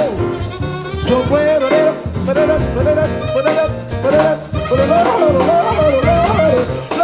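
A jazz combo playing a swinging instrumental passage: a melody line bending up and down over a steady bass line and drums.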